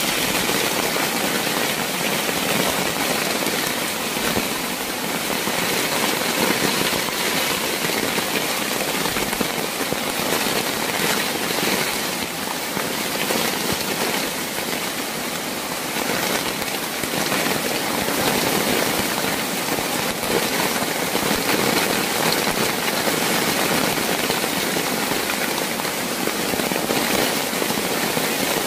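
Heavy rain falling steadily, a dense, even wash of rain noise.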